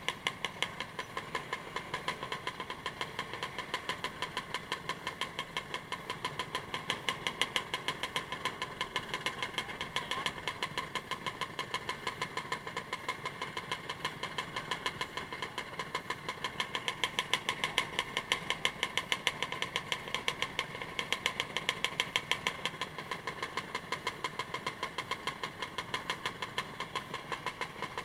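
A vehicle engine running steadily on the move, heard as an even train of pulses, about five a second, with a strong buzzing edge.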